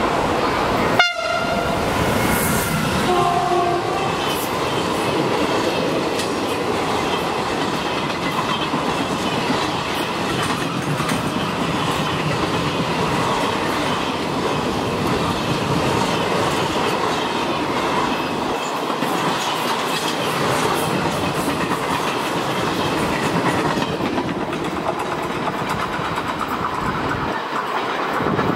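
Freight train passing close by: an electric locomotive followed by a long string of container wagons, with the wheels making a steady rumble and clatter over the rails. A sharp crack comes about a second in, and short horn tones follow a few seconds later.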